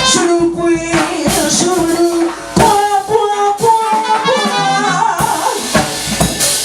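Live jazz: a female singer over a band with drums, the vocal line sliding and bending between held notes.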